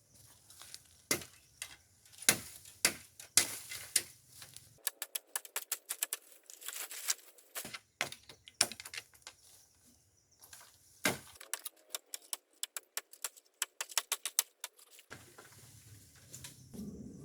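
An irregular series of sharp clicks and knocks, some loud and some in quick runs.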